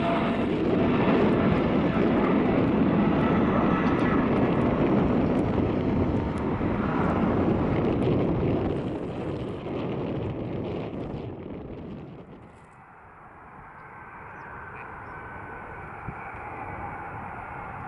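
Jet engine noise from a Boeing 777-200ER's twin GE90 turbofans passing the microphone: a loud, steady rushing sound that fades away over about twelve seconds. A much fainter steady rumble is left afterwards.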